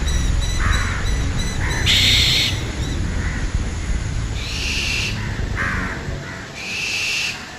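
Crows cawing, several separate calls, over a steady low rumble in the background music; the sound starts to fade near the end.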